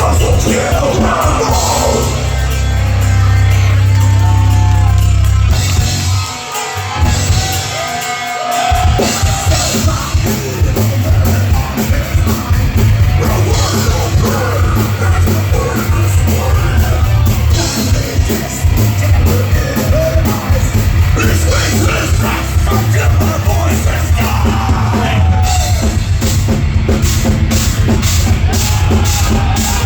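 Heavy metal band playing live, with drums and shouted singing. The low end drops out briefly about six seconds in, then the full band comes back in.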